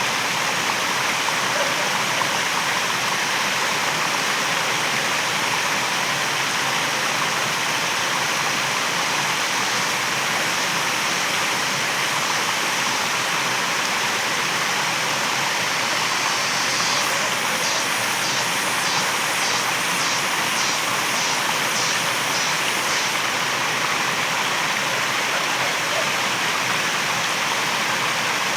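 Waterfall rushing steadily. For a few seconds past the middle, a high pulsing sound repeats about two to three times a second over the water.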